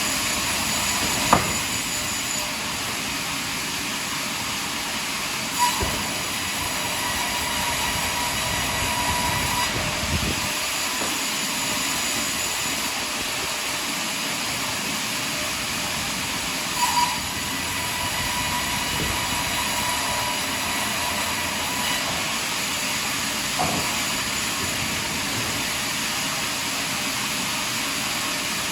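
Sawmill saw cutting through a large log: a steady machine noise with a thin whine that comes and goes, and a few short knocks.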